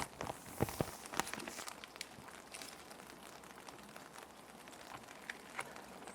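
Plastic sheet protectors crinkling and rustling as they are handled, with a few sharp crackles in the first second and a half and only scattered ones after, over a steady background of rain hiss.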